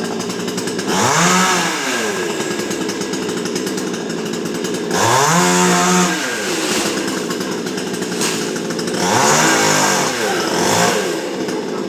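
Two-stroke chainsaw running at idle, revved three times, each rev climbing in pitch and falling back within about a second and a half, with a shorter blip near the end.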